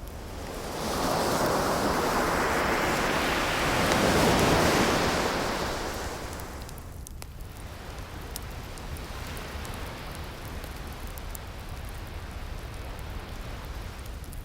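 An ocean wave breaking and washing up the shore: it swells about a second in, is loudest around four to five seconds, and dies away before the halfway point. After it, a quieter steady hiss with faint scattered crackles remains, from the fireplace crackle and distant surf.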